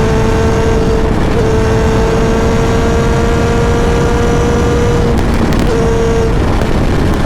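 Kawasaki ZX-7R's 750 cc inline-four engine running at steady revs on the move, its note creeping slowly higher over heavy wind and road noise. About five seconds in the note drops away, comes back briefly, and breaks off again near the end.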